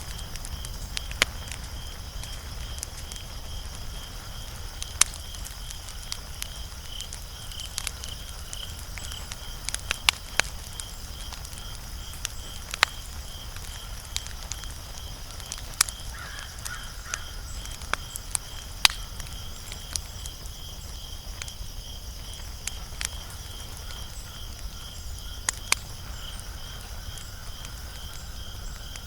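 Wood fire crackling, with irregular sharp pops scattered through, a dozen or so much louder than the rest. Behind it runs a steady high chirping in an even pulse of a few beats a second.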